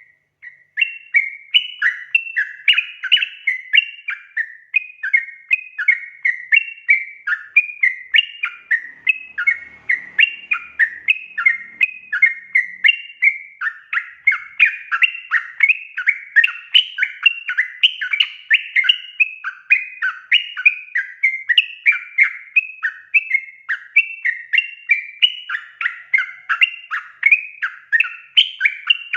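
Yellow-vented bulbul (trucukan) singing nonstop: quick, bubbly chattering phrases, one after another at about three a second.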